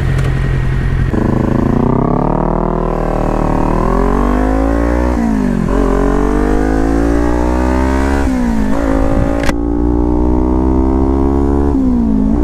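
Sport motorcycle engine pulling away from idle and accelerating hard, the revs climbing and then dropping sharply at each of three upshifts. A single sharp click comes near the end.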